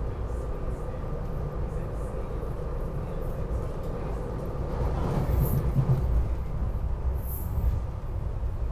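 SEPTA regional rail electric train running on the rails, heard from inside the passenger car: a steady low rumble with a faint steady hum, growing louder about halfway through as the train picks up speed out into the open.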